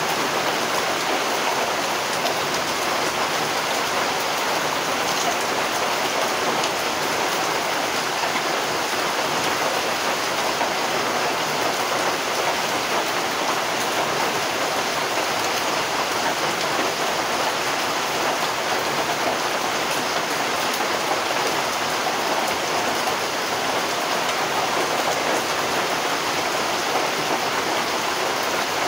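Rain falling steadily, an even hiss of drops that does not let up.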